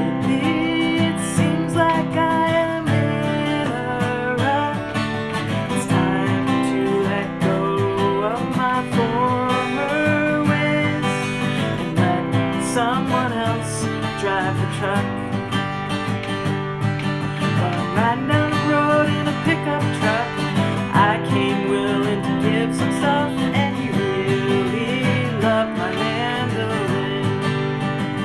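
Acoustic guitar strummed, playing a song.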